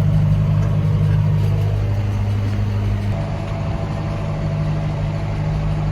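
John Deere 6125M tractor engine running steadily under load while driving a McHale F540 round baler through the PTO at 540 rpm, a continuous low drone.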